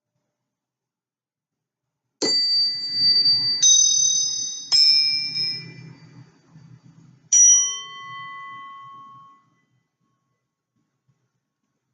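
Small high-pitched bells or chimes struck four times, each strike ringing with several bright tones that die away over a few seconds. The last one fades out after about two seconds.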